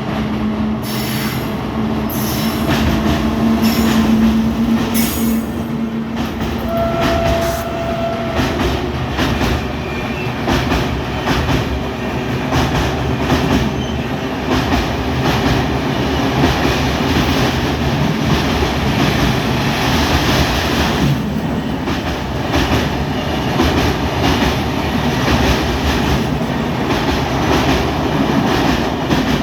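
Train running on the track: a loud, steady rumble with repeated clicks of the wheels over rail joints. A steady low tone sounds for the first six seconds, and a short high tone comes about seven seconds in.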